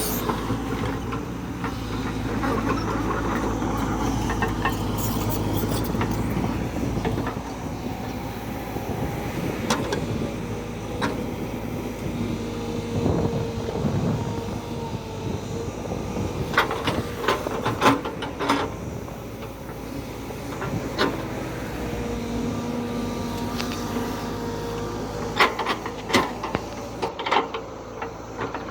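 JCB backhoe loader's diesel engine running steadily while it works, with clusters of sharp knocks from the machine about two-thirds of the way through and again near the end.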